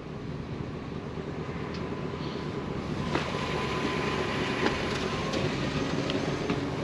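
Pickup truck running, a steady low rumble with a few light clicks and knocks.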